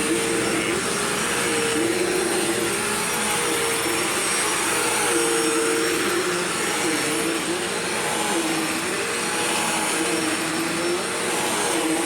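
Bissell CleanView Swivel upright vacuum cleaner running steadily, its motor whine dipping briefly in pitch every second or two.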